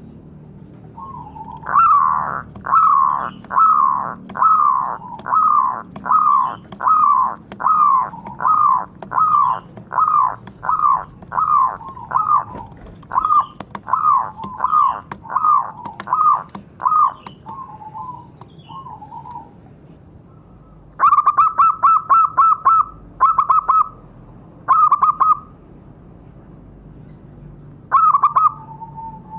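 Zebra dove (perkutut) cooing: a long run of about twenty short falling coos, roughly two a second, then after a pause several bursts of rapid stuttered notes.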